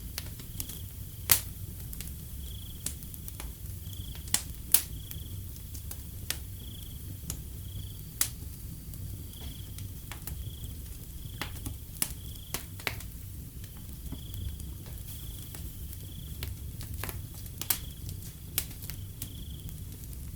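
Wood fire crackling, with sharp irregular pops of varying loudness, over a low steady rumble. Crickets chirp in a high-pitched, regularly pulsing pattern behind it.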